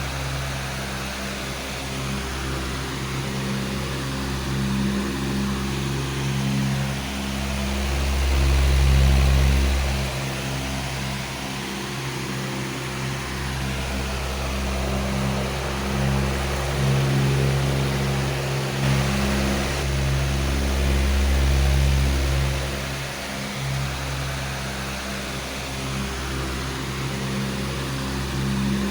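Powerful electric fan running steadily: a low motor hum with a rush of air over it, swelling and easing slightly in loudness now and then.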